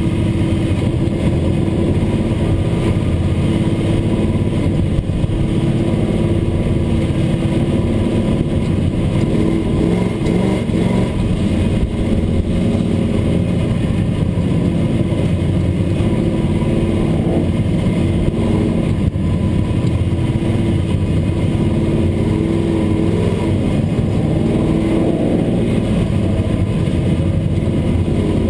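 Pro Truck race truck's engine running steadily, heard from inside the cab, loud and even throughout.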